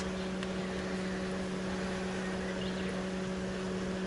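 A steady machine hum, one low pitch with a couple of fainter overtones, over an even rushing noise.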